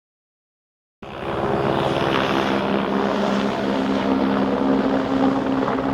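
Helicopter drone with a steady, unchanging pitch, cutting in abruptly about a second in.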